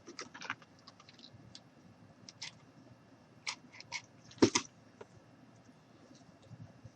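Rope being wound and pressed around a wine glass by hand: soft scattered rustles and small clicks, with one louder knock about four and a half seconds in.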